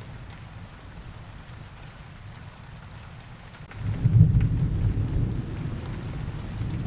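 Steady rain ambience, with a low rumble of thunder rolling in a little under four seconds in and carrying on, louder than the rain.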